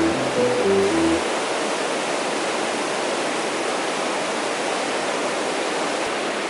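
Mountain stream water rushing steadily. A few closing music notes end about a second in.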